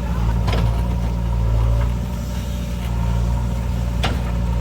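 Heavy diesel engine running steadily with a low hum that swells slightly about a second in. Two short sharp clicks or knocks sound over it, about half a second in and near the end.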